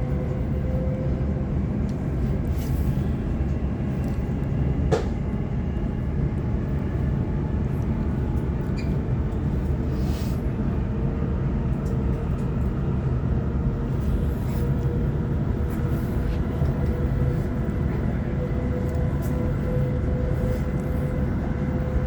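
Sydney Trains Waratah electric multiple unit running between stations, heard from inside the carriage: a steady rumble of wheels on track with a constant hum, and a single click about five seconds in.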